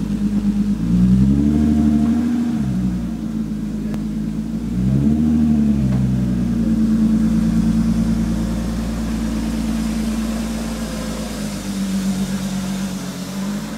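BMW E36 325i's M50B25 2.5-litre straight-six engine, revved up and back down twice, about a second in and again about five seconds in. It then settles into a steady low-rev run as the car moves off slowly.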